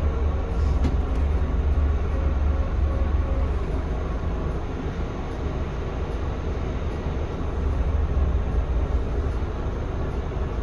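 Scania K320CB bus under way, its Scania DC9 diesel engine droning low and steady under road and running noise.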